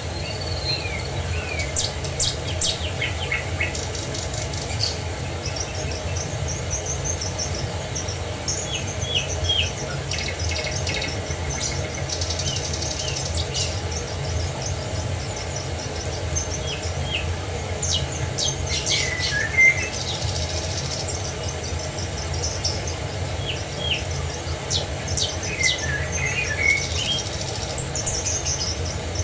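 Several birds chirping and trilling over a steady low rush of water, with one louder call about two-thirds of the way through.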